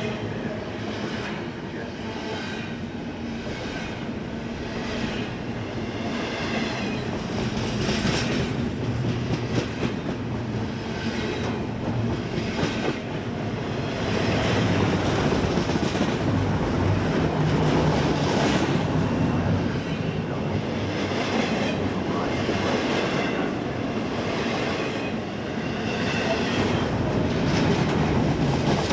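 Freight cars rolling past on a BNSF train, with the steady rumble of the wheels and a repeated clack as they cross rail joints.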